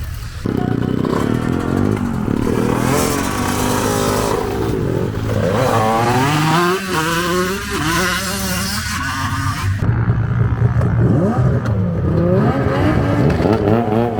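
Several vehicle engines running and revving at once, their pitch rising and falling and overlapping.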